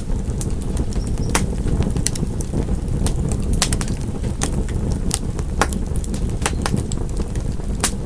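Wood fire crackling in a fireplace: sharp, irregular pops and snaps, several a second, over a steady low rumble.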